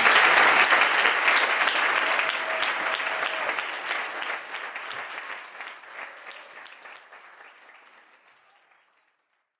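Congregation applauding at the end of a sermon, the clapping loudest at first and dying away to nothing over several seconds.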